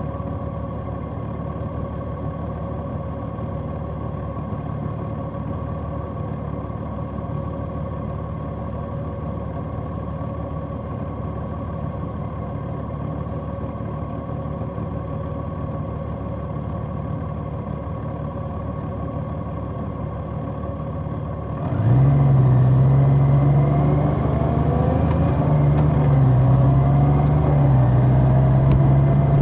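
Large motorcycle's engine running steadily, then, about three-quarters of the way through, getting suddenly louder as the bike pulls away, its note rising and dipping through gear changes.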